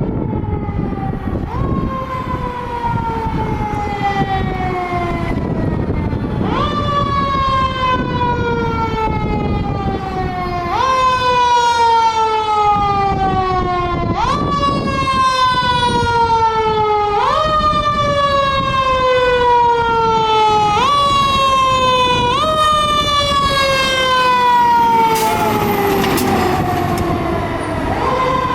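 Fire engine's Federal Q2B mechanical siren, spun up again and again: each time the wail climbs quickly and then winds slowly down, about every three and a half seconds. Heavy truck engine rumble sits underneath.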